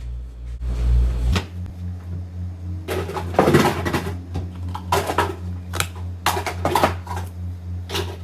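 Dishes and cutlery clattering and cabinet doors knocking while a dishwasher is unloaded, a cluster of short knocks and clinks about three to seven seconds in, over a steady low hum.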